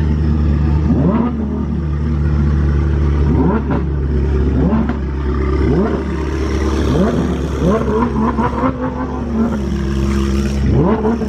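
Sports car engines revved in quick throttle blips, about nine short rising revs in turn, over the steady drone of engines idling.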